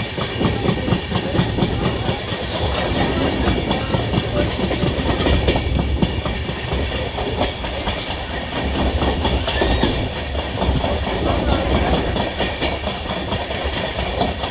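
Coaches of the 13152 Jammu Tawi–Kolkata Express running at speed, with the wheels clattering steadily over the rail joints beneath a continuous rumble and rush of the moving train.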